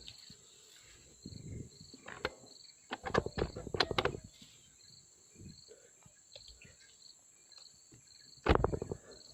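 Insects chirping steadily, one high even trill with a second call pulsing about twice a second. Over them come irregular bursts of crackling rustle, the loudest about three to four seconds in and again near the end.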